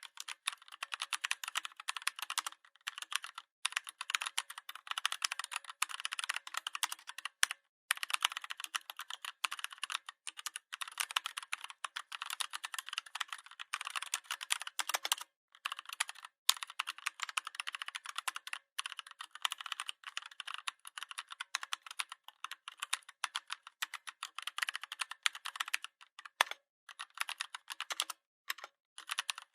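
Continuous typing on a computer keyboard: rapid key clicks in runs of a few seconds, with brief pauses between them.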